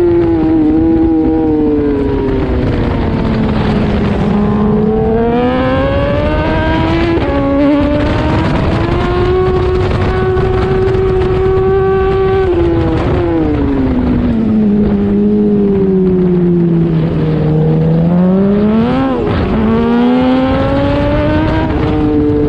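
Suzuki racing motorcycle's inline-four engine heard on board at racing speed, revs falling under braking and climbing in steps through upshifts, twice over, with a quick dip and rise near the end.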